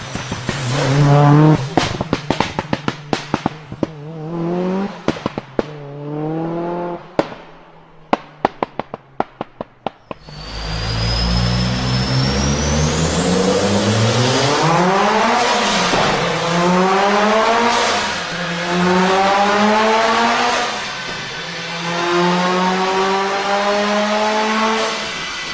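Mitsubishi Lancer Evolution VII's stroked 2.3-litre turbocharged 4G63 four-cylinder. For the first ten seconds it revs in short blips, with many sharp exhaust pops and crackles off throttle. It then makes a hard full-throttle run through several gears, its pitch climbing and dropping at each shift, with a high whistle rising over the first pull.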